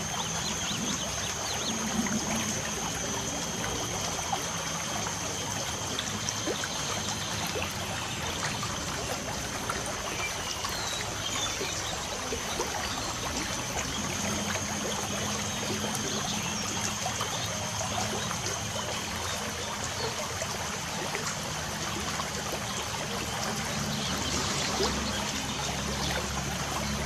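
Steady light rain pattering and dripping, with a continuous high thin tone and a few faint bird chirps now and then.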